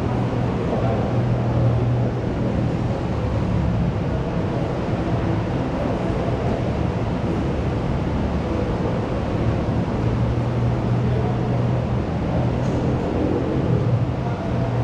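School canteen ambience: a steady din of indistinct crowd chatter over a low hum.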